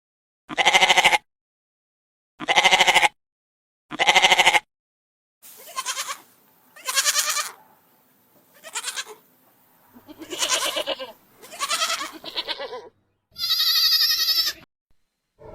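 Bleating from a goat or sheep kind of animal: three short, even calls about a second and a half apart, then a run of longer calls, and a higher-pitched call near the end.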